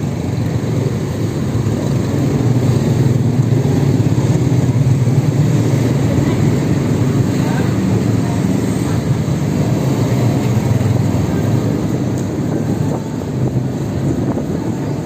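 Steady rumbling wind and road noise from a ride on an electric motorbike, with no distinct motor whine standing out.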